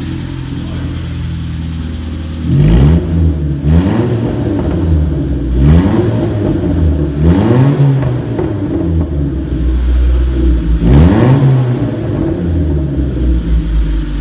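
Honda Civic EG3's four-cylinder engine running with its mid and rear silencers removed, so the exhaust is open and loud. It idles for a couple of seconds, then is revved in a series of quick blips that rise and fall, several times over.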